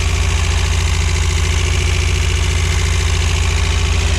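Freshly rebuilt 1.9-litre VW WaterBoxer water-cooled flat-four in a 1985 Vanagon, idling steadily with an even, rapid pulsing just after its first start following the rebuild.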